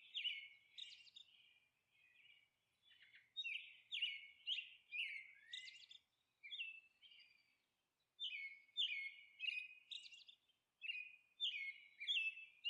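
Bird chirping: runs of quick, high chirps, each sliding down in pitch, several a second, broken by two short pauses.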